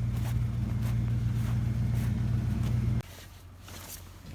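Pickup truck engine running with a steady low hum, then switched off about three seconds in.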